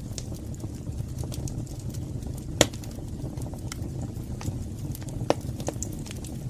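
Fire burning in a fireplace: a steady low rumble of flames with scattered crackles and pops, two louder pops about two and a half and five seconds in.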